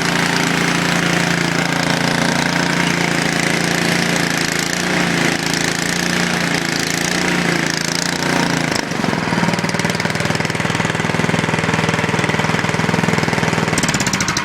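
Small single-cylinder snowblower engine, about 5 horsepower, running steadily after a cold start on choke; its tone changes about nine seconds in.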